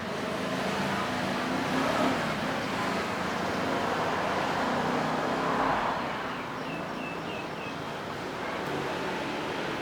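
Road traffic noise with a motor vehicle engine running close by. It grows louder for the first few seconds, then eases off.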